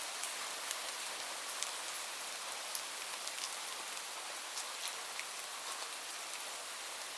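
Steady rain falling, a continuous hiss with scattered sharp taps of individual drops striking a surface.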